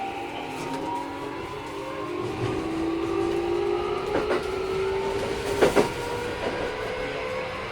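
Keikyu 1000 series electric train's Mitsubishi IGBT inverter and traction motor whine, climbing slowly in pitch as the train accelerates, over running noise. Sharp wheel clacks over rail joints come about four and six seconds in. This unit runs a little noisier than other sets of the class.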